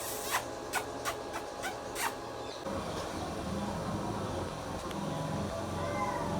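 Ring-necked parakeet giving a quick series of six short, sharp calls in the first two seconds, then a low steady hum underneath from a little before the middle.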